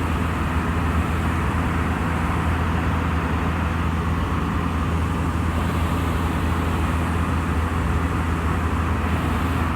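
Cessna light aircraft's piston engine and propeller running steadily in flight, an even drone heard from inside the cabin.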